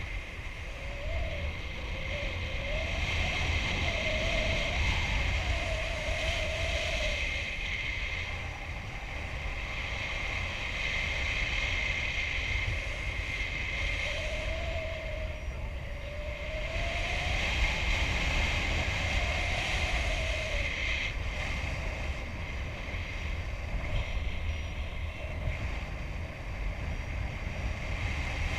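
Wind rushing over the microphone of a paraglider pilot's camera in flight, a steady noise that slowly swells and eases. A faint wavering tone comes and goes twice.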